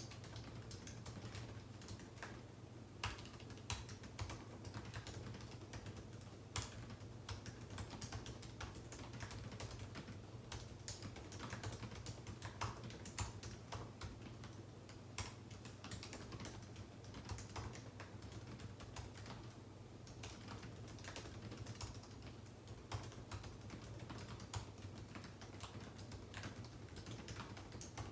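Continuous typing on a computer keyboard: quick, irregular key clicks with occasional louder strokes, over a low steady hum.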